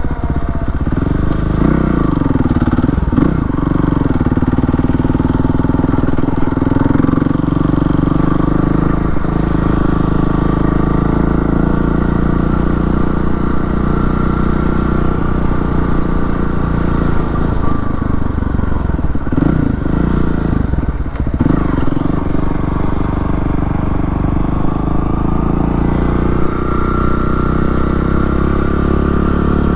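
Kawasaki KLX300R's single-cylinder four-stroke engine running through an FMF PowerCore 4 exhaust with a quiet insert and an open airbox lid, as the bike is ridden. Engine speed rises and falls in the first few seconds, holds steady for a long stretch, dips twice about two-thirds of the way through, then climbs again near the end.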